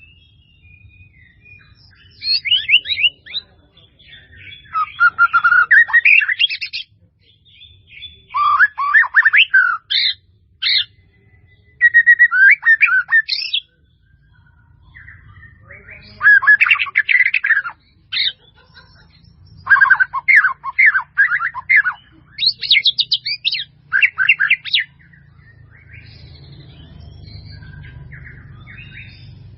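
White-rumped shama (murai batu) singing: bursts of rapid, varied whistles and trills, each a second or a few seconds long, with short pauses between, growing fainter near the end.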